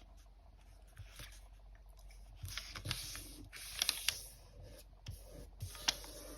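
A square of origami paper rustling and crinkling as it is folded into a triangle and its crease pressed, with a few short soft taps and scrapes.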